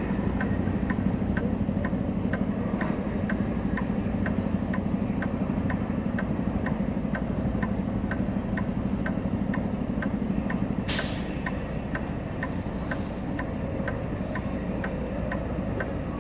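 Semi-truck diesel engine running inside the cab, with a steady ticking about twice a second. About eleven seconds in a sharp burst of air from the air brakes, after which the engine runs quieter, followed by a few short air hisses.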